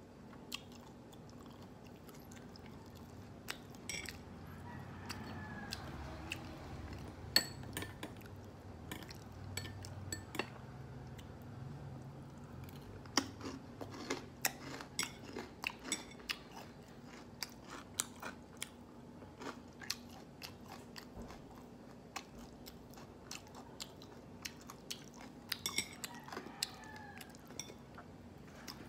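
Close-up chewing of crispy battered fried pork tenders, with many sharp crunches scattered throughout.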